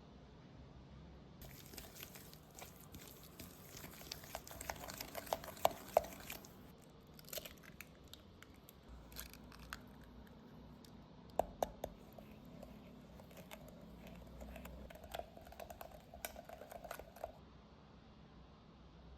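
Kitchen handling noises while baking: crinkling and rustling with scattered sharp clicks and taps, busiest around four to six seconds in and again around eleven seconds in.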